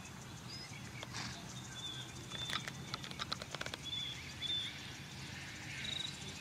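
Birds chirping with short, repeated high notes. A quick run of about ten sharp clicks comes roughly halfway through, over a low steady hum.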